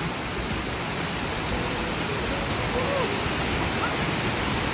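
Waterfall pouring and splashing, a steady loud rush of falling water, with faint voices briefly in the background.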